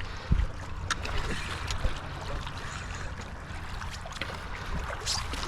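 Steady outdoor noise of water and wind at the shoreline, a low rumble under a hiss, with a few faint clicks.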